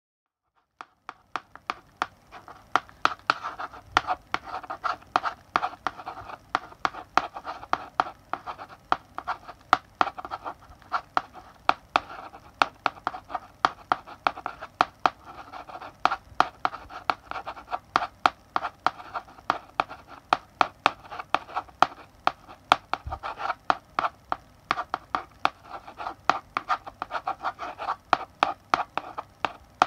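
Chalk writing on a blackboard: a rapid, irregular run of sharp taps as the chalk strikes the board, with scratching strokes between them, starting about a second in.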